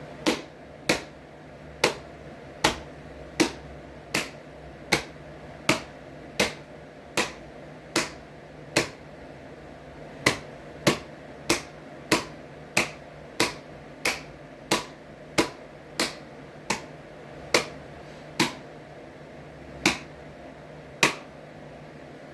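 Hands clapping repeatedly on a warped ceiling fan blade, sharp single claps a little under one a second, with a couple of short pauses. A steady low hum runs underneath.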